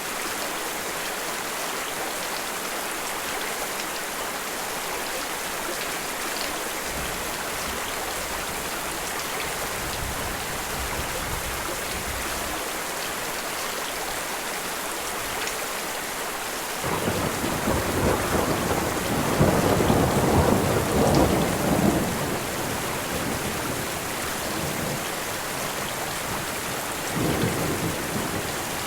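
Steady rain falling, with thunder rolling in over it: a faint low rumble about a quarter of the way in, a louder roll lasting several seconds about two-thirds of the way through, and a shorter one near the end.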